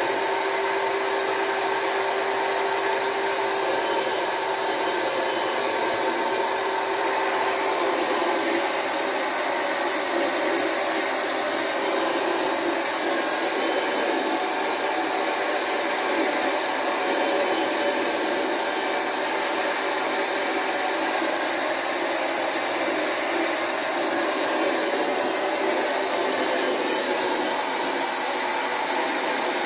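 Rug Doctor carpet extractor running steadily, its vacuum motor giving a continuous whine during extraction of a mattress.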